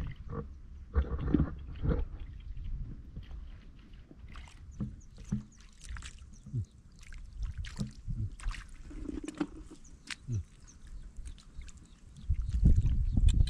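Water splashing and sloshing, with scattered knocks and thuds at an irregular pace. A louder low rumble of handling or water comes near the end.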